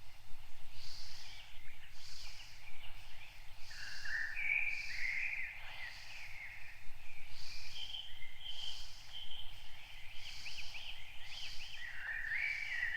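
Wild birds chirping and warbling, several short rapid calls at a time, over a higher note that repeats about once a second.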